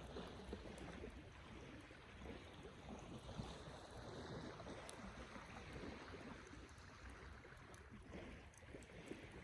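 Wood fire burning faintly, with a soft crackle and scattered small pops.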